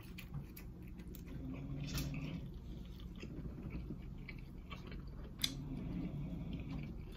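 Close-up chewing and biting of boiled shrimp, with wet mouth sounds and small clicks and one sharp click about five and a half seconds in. A person snores low in the background, swelling twice.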